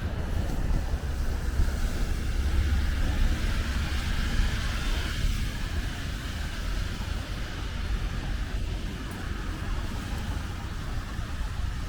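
Rainy city street ambience: the steady hiss of rain and tyres on wet road with passing traffic, under a low rumble of wind on the microphone.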